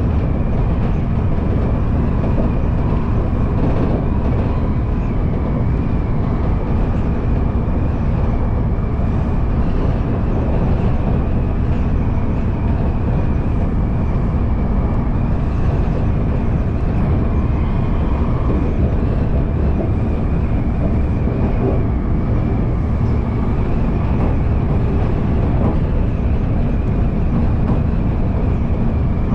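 Electric commuter train running along the line, heard from inside the front car: a steady rumble of wheels on rail with a thin, steady high whine above it.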